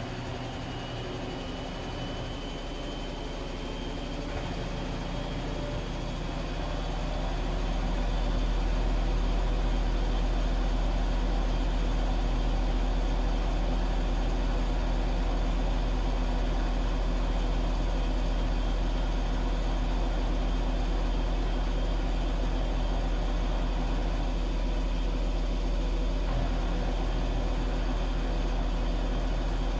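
Washing machine running. About five seconds in it grows louder over a few seconds, with a deep steady hum and a faint rising whine, then keeps going at that level.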